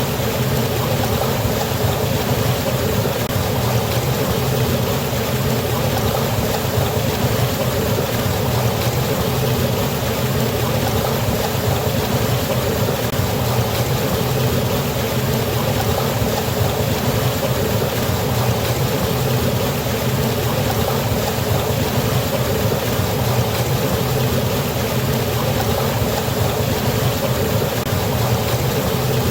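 Rushing water from a waterfall and river, a loud, steady, unbroken wash with a heavy low rumble underneath.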